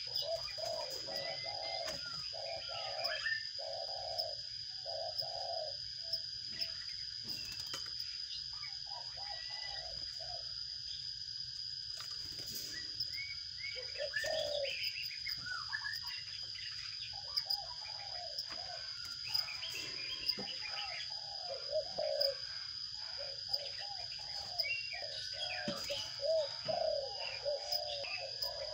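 Birds calling: quick runs of repeated low notes and scattered higher chirps, over a steady thin high-pitched whine.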